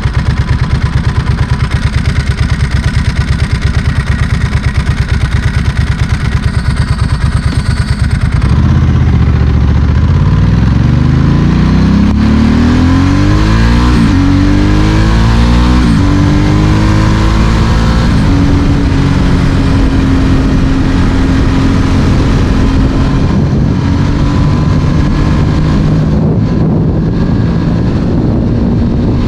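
Ducati Monster S4R's 90-degree L-twin engine through a straight exhaust, idling with a lumpy, pulsing beat. About eight seconds in it pulls away, revving up with the pitch dropping back at each of three upshifts, then settles into a steady cruise.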